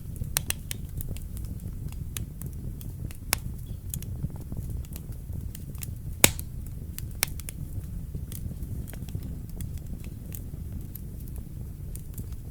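Wood fire burning in a fireplace: a steady low rumble of flames with scattered sharp crackles and pops. The loudest pop comes a little after the middle.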